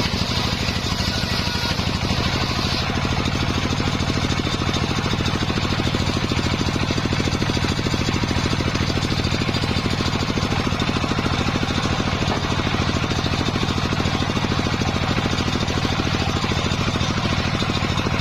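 Engine powering a circular sawmill, running steadily with an even pulsing drone. A higher whine heard at the start stops about three seconds in.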